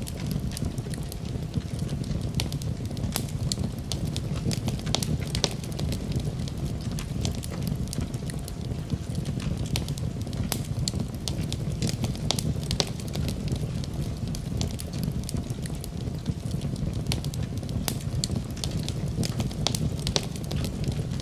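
Wood fire burning: a steady low rumble of flames with frequent irregular sharp crackles and pops from the burning wood.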